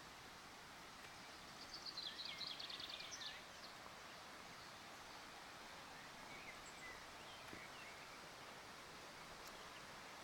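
Faint outdoor ambience with a steady hiss, and a small bird singing a quick trill of rapidly repeated high notes about two seconds in, lasting over a second; a few fainter chirps follow later.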